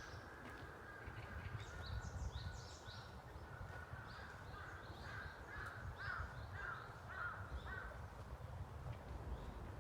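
Wind rumbling and buffeting against the microphone, with birds calling over it: high short chirps in the first half, then a run of about five repeated calls in the second half.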